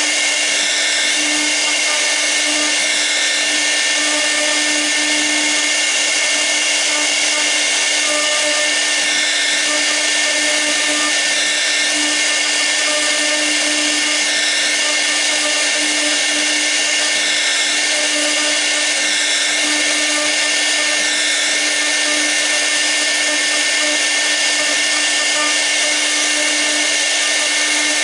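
6 kW air-cooled spindle of a 1325 CNC router running steadily while V-bit carving: a constant whine over a dense airy hiss, with no change in level.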